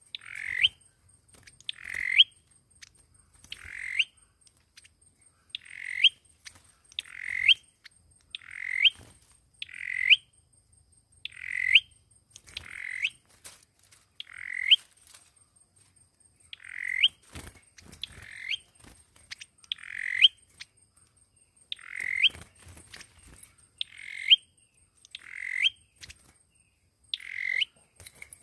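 Sâu dừa bird repeating a short call about every one and a half seconds, each note swelling and ending in a quick upward flick: the bird's lure call, used to draw birds in for trapping.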